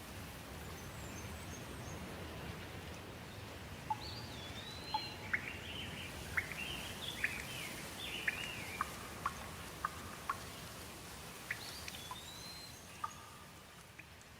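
Steady rain falling, with a bird calling over it in a run of short chirps and whistled notes from a few seconds in until near the end.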